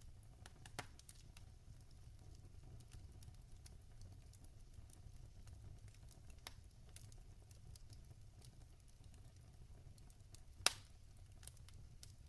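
Logs burning in a fireplace, crackling softly over a low steady rumble, with scattered small clicks and one sharp, louder pop near the end.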